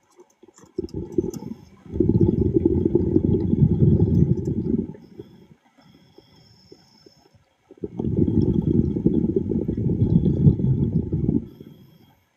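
A diver's exhaled bubbles rushing and gurgling underwater: two long exhalations, each about three and a half seconds, about six seconds apart.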